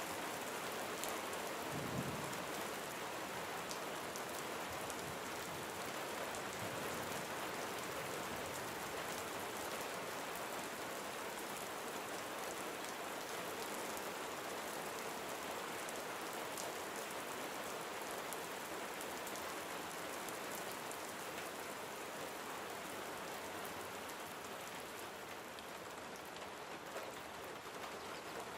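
Steady gentle rain falling on surfaces, a continuous hiss with many fine drop ticks, and a single low thump about two seconds in.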